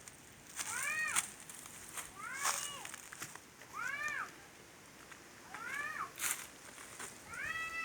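A cat meowing five times, about every second and a half, each meow rising then falling in pitch. Short scratchy noises come alongside some of the meows.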